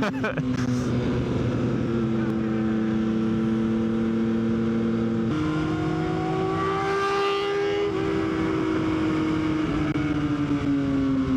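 Yamaha XSR900's three-cylinder engine pulling at road speed with wind rush. About five seconds in the engine note steps up suddenly, climbs a little, then falls slowly as the revs ease off.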